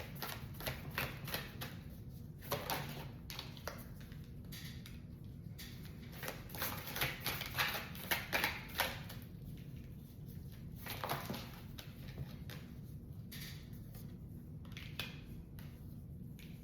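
Tarot cards being shuffled and handled: a run of faint quick clicks and flicks of card against card, busiest about seven to nine seconds in.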